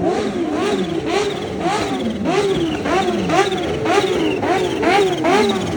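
Superbike engine revved in quick, repeated throttle blips, about two a second, its pitch jumping up and falling back each time.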